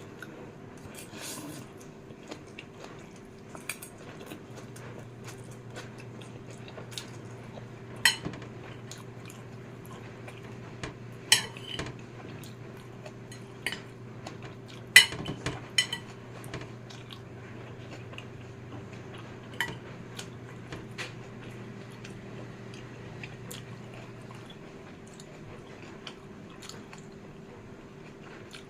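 A person eating fried noodles: cutlery clinks sharply against a dish several times, the loudest about halfway through, with soft chewing between. A steady low hum runs underneath.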